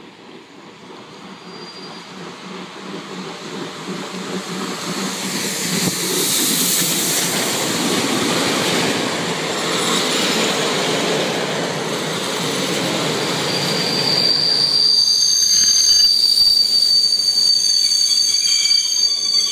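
A passenger train hauled by a PT47 steam locomotive grows louder as it approaches, then its coaches rumble past on the rails. Some two-thirds of the way in, a steady high-pitched squeal of brakes or wheels sets in as the train slows to stop at the platform.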